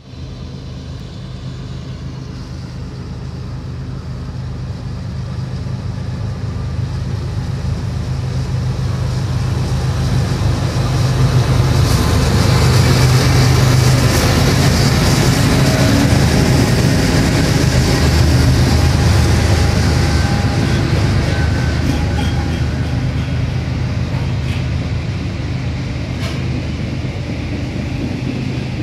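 A BNSF intermodal freight train with several diesel locomotives drawing near and passing close by. The engine drone grows steadily louder to a peak about halfway through, then gives way to the rumble of double-stack container cars rolling past on the rails, with a few sharp clicks.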